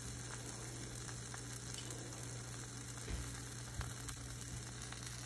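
Stuffed tortilla wrap sizzling steadily in a hot pan as it toasts, over a steady low hum, with a couple of faint knocks past the middle.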